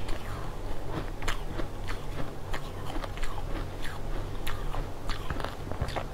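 Close-up crunching and chewing of tinted crushed ice: many sharp, irregular crunches and crackles, over a steady low hum.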